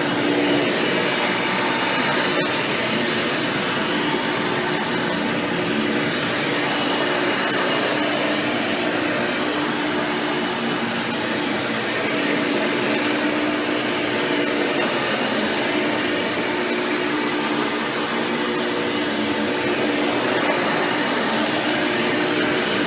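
Hoover Power Drive Supreme upright vacuum cleaner, fitted with a 20-blade impeller fan, running steadily while vacuuming, with a steady motor tone. A single click is heard about two and a half seconds in.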